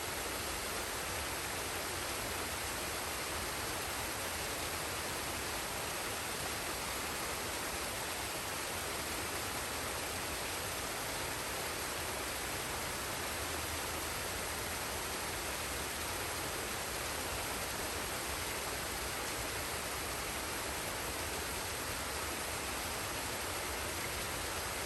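Forest waterfall and stream: water rushing and splashing in a steady, even roar with no change.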